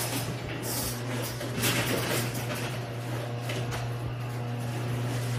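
Electric garage door opener running steadily as the door travels, with a low motor hum and some rattle from the door.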